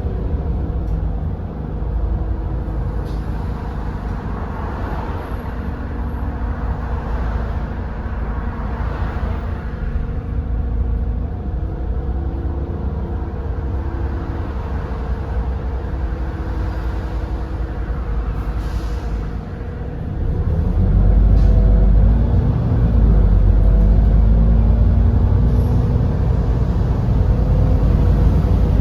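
Edison Motors Smart 110G natural-gas city bus's GX12P engine heard from inside the cabin, running steadily at low revs. About twenty seconds in it gets louder and its pitch climbs and bends as the bus pulls away under load.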